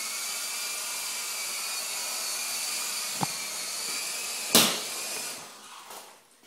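Toy RC coaxial helicopter's small electric motors and rotors whining steadily at high speed. A click comes about three seconds in and a loud knock about a second later, after which the whine winds down and dies away.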